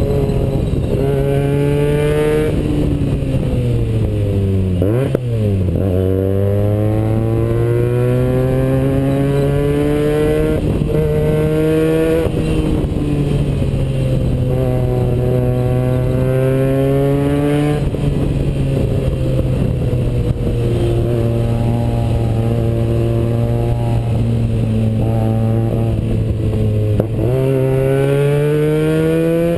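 Benelli TNT 300's 300 cc parallel-twin engine running through an IXIL aftermarket exhaust with the baffles pulled out, under way on the road. The engine note holds fairly steady and rises and falls with the throttle, dropping sharply and climbing back about five seconds in and rising again near the end.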